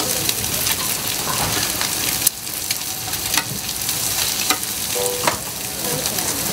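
Food sizzling as it fries in hot oil, with scattered sharp clicks; a louder knock about two seconds in, after which the sizzle is a little quieter.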